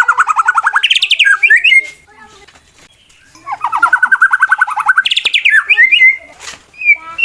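Male white-rumped shama singing an aggressive challenge song, the kind used to provoke other males to fight. Twice it gives a fast run of about ten notes a second that rises into higher whistled notes, with a pause of about a second and a half between the two phrases.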